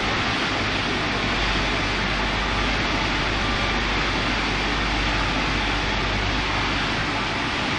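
Automatic car wash machinery running with a steady rushing noise.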